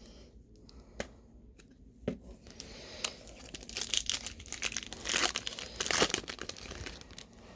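A foil trading-card pack being torn open and its wrapper crinkled. A couple of light taps come first, then the crinkling starts about two seconds in and grows louder, peaking near the end.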